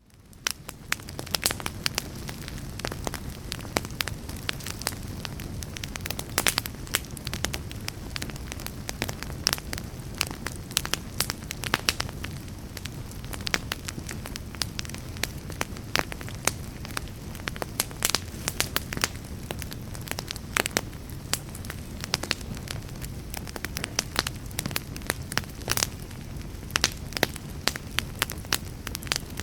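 Wood fire crackling: a steady low rumble of flames with frequent irregular sharp pops and snaps, fading in over the first second.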